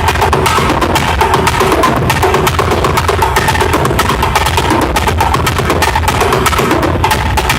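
Loud recorded music with busy, fast, steady percussion and a strong bass, played through a sonidero's sound system during an equipment test.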